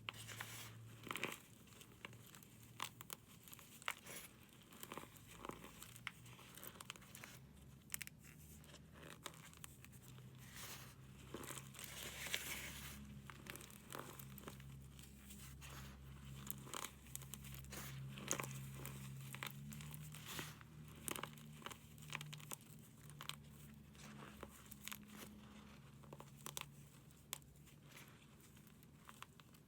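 A dry, brittle material being crushed and crumbled by hand, with many small sharp cracks and crackles. A faint low hum sits underneath from about five seconds in.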